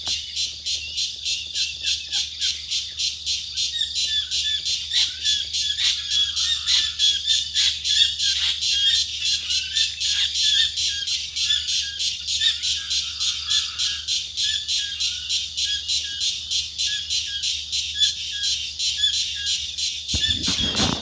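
An unidentified animal calling from a large tree: a loud, high-pitched, rapid pulsing of about four pulses a second that keeps on steadily, mixed with short repeated chirps. The listener takes it for neither a bird nor a grasshopper.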